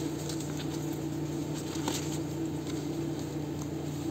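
Soft paper rustles and small light taps from hands handling and pressing down paper pieces of a journal, over a steady low electrical hum.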